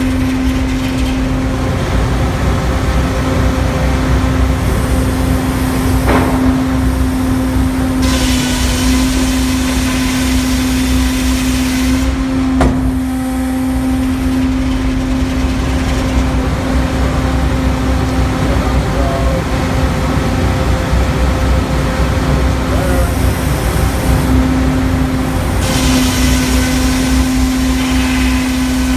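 Hurdle sawmill machinery running with a steady engine drone and low rumble. Two stretches of louder hissing come about eight seconds in and again near the end, with a couple of sharp knocks between.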